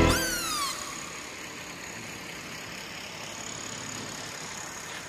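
Steady road traffic noise, vehicles running along a city street. A short falling tone sounds in the first second as music cuts off.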